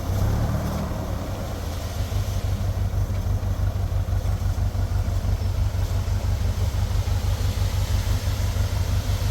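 An engine idling with a steady, fast, low throb.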